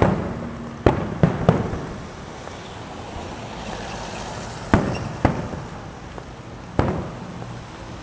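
Aerial fireworks shells bursting: about seven sharp bangs in irregular clusters, each trailing off in an echo, over a steady background noise.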